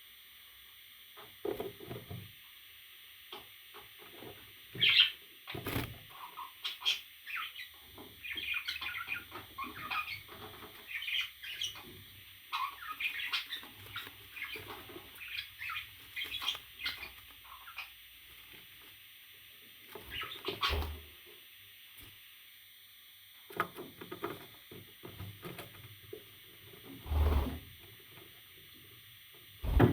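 Pet parrot chirping and squawking in many short calls through the first half, with a few loud thumps or knocks.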